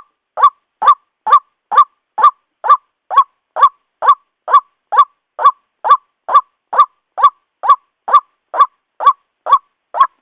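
White-breasted waterhen calling a loud, clipped 'kwak' over and over, a little more than two calls a second in an even, unbroken rhythm. It is the repeated call used as a lure recording to draw in both male and female waterhens.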